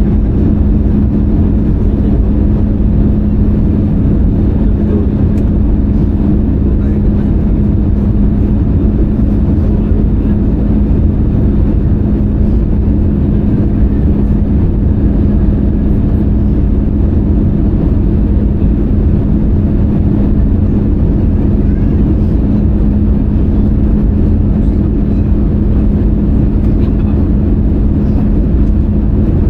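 Airbus A320-200 cabin noise on descent: a steady drone of jet engines and airflow with a constant low hum, unchanging throughout.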